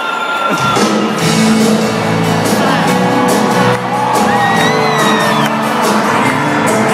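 Live sertanejo band music starting up about half a second in, with audience screams and whoops rising over it.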